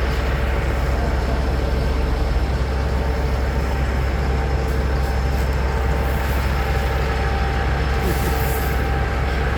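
A large engine running steadily at a constant speed, loud and even throughout, with a deep low drone.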